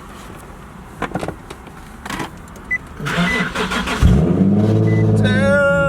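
Nissan 370Z's 3.7-litre V6 being started: a few seconds of cranking, then it catches about four seconds in. It flares up in revs and drops back to a steady idle.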